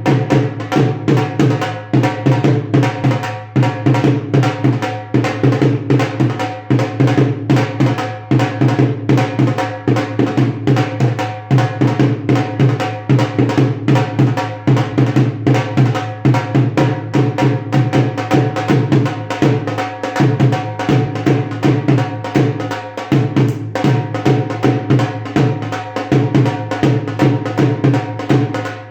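A dhol played with sticks in a fast, steady rhythm of strikes, with short breaks between phrases every few seconds.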